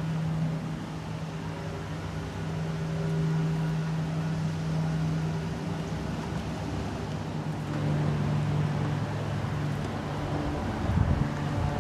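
Engine idling steadily, a constant low hum that steps down slightly in pitch a little past halfway, with a few low bumps near the end.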